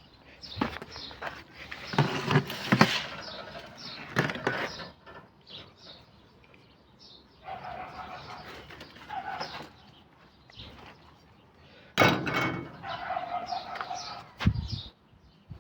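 Birds calling, with short held calls about halfway through and again near the end, over scattered knocks and rustling.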